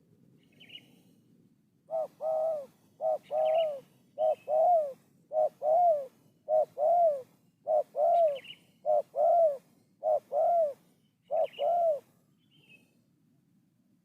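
A dove cooing in a steady series of about nine two-note phrases, roughly one a second, each a short note followed by a longer rising-and-falling coo. Another small bird chirps faintly and higher now and then.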